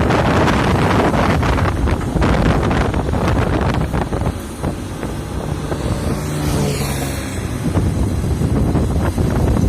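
Excavator diesel engine running, mixed with heavy wind buffeting the microphone. The noise eases a little about halfway through, leaving a steady low hum, then builds back up.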